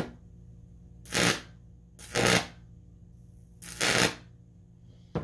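Microwave oven transformer briefly powered from 220 V mains, giving four short, loud crackling buzzes about a second apart, with a low hum between them.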